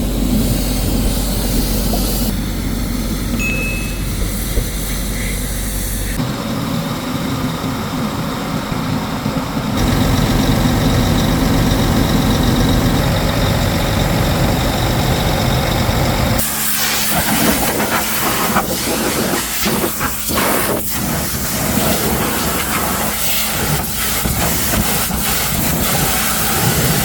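Car-wash noise in several abruptly cut shots: a steady hiss of water spray over a low motor hum, changing suddenly about six, ten and sixteen seconds in, with a rougher, crackling spray in the last stretch.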